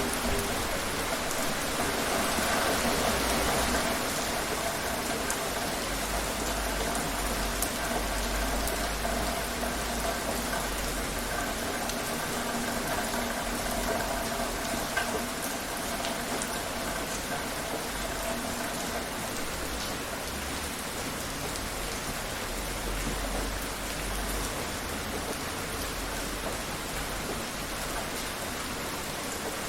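Steady rainfall, a dense even hiss of drops hitting a surface, with scattered sharper drop ticks. A faint steady hum sits underneath and fades out about twenty seconds in.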